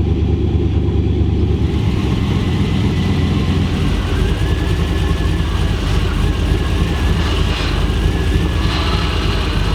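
Turbocharged LS V8 idling steadily through mufflers. A faint wavering whine joins the engine note about four seconds in.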